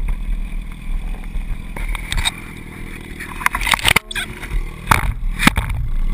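Skateboard wheels rolling with a steady rumble, broken by several sharp clacks and knocks in the second half.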